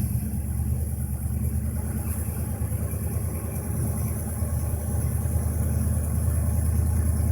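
Excavator's diesel engine running steadily with a low hum, getting a little louder over the last few seconds.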